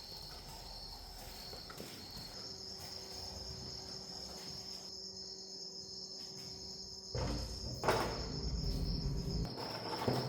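Faint, steady high-pitched chirping of insects, with a louder rustling noise for about two seconds starting about seven seconds in.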